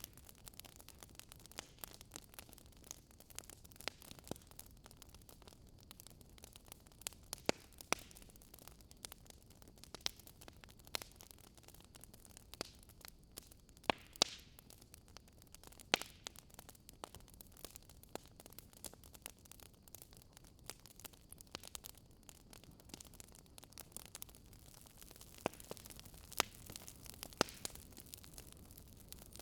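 Fire crackling: irregular sharp pops and snaps, a second or several apart and a few louder than the rest, over a faint steady hiss.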